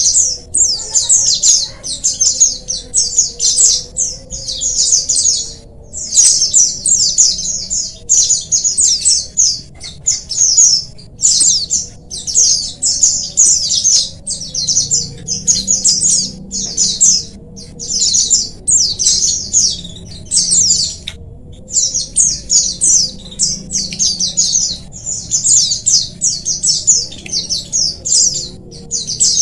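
A flock of white-eyes (pleci) chirping and singing together: a dense chatter of rapid, high notes in short overlapping phrases with brief pauses between them.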